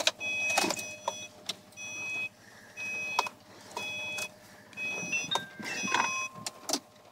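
Subaru Impreza's dashboard warning chime repeating about once a second, six times, with a few clicks from the door and controls, just before a cold start.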